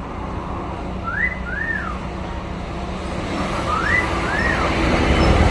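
A pet myna whistling a pair of rising-and-falling notes twice, over a steady low rumble of traffic.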